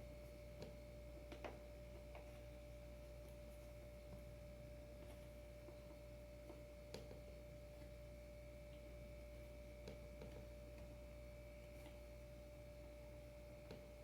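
Near silence: room tone with a steady faint whine and a low hum, broken by a few faint clicks.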